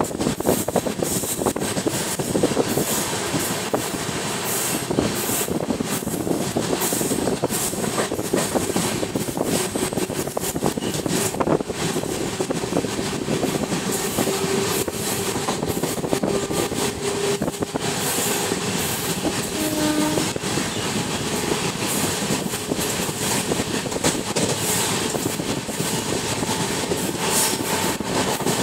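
Train running at speed, heard from on board: a steady rumble and rattle of the carriage with repeated clicks of the wheels over rail joints.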